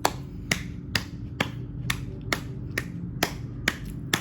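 A series of sharp, evenly spaced snaps or clicks, about two a second, over a steady low hum.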